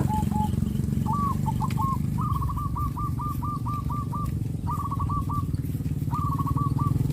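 A small engine, likely a motorcycle's, running steadily at low revs, while a bird sings in several bursts of rapid repeated chirps, the longest a quick trill of about eight notes.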